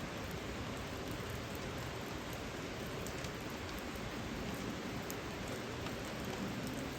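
Steady rain falling, an even hiss with a few sharp drop ticks now and then.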